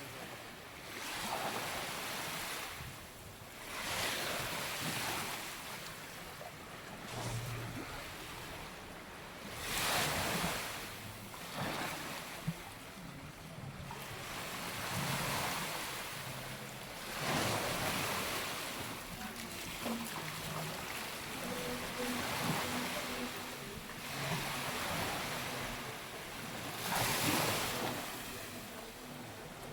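Small waves breaking and washing up on a sandy beach, swelling and fading every few seconds.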